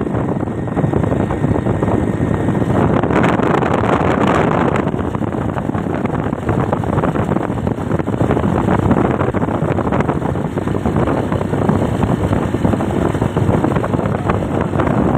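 Steady rushing wind noise on the microphone, as heard from a moving motorcycle.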